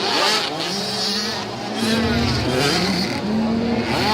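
Several motocross bikes' engines revving at once, each rising and falling in pitch as the riders work the throttle around the track.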